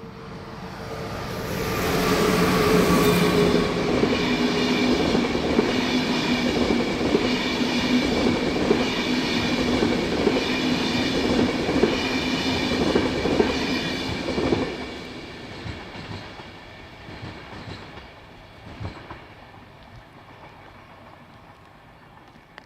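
A train passing through the station without stopping: it builds up over the first two seconds, then runs loud with wheels clattering over the rails and a steady high whine, and fades away after about fifteen seconds.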